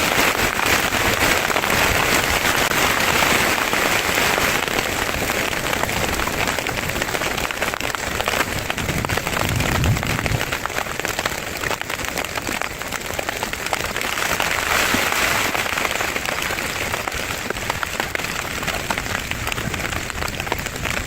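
Steady rain falling, dense drops striking close to the microphone, with a short low rumble about halfway through.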